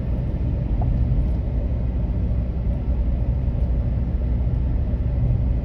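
Steady low rumble of a car's engine and tyres while driving up a hill road at about 25 mph.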